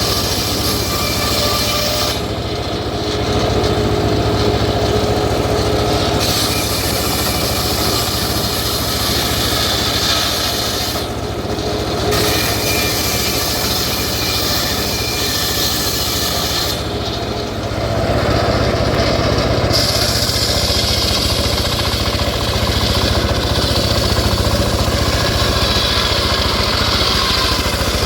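Home-built engine-driven circular saw running steadily while cutting teak. A constant low engine drone runs under a high rasping hiss of the blade in the wood, which lets up briefly three times.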